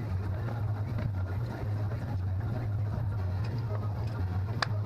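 A steady low machine hum, with one sharp click near the end.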